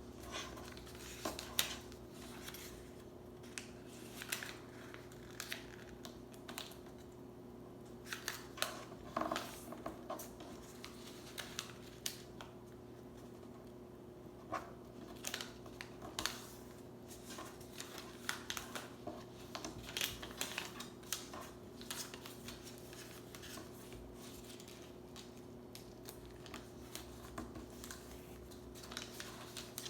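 A sheet of paper being folded and creased by hand into a paper airplane: irregular short crinkles and scrapes of the paper, over a steady low hum.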